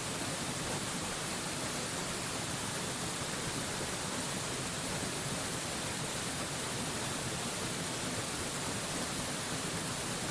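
Mountain waterfall rushing steadily, an even, unchanging hiss strongest in the high treble.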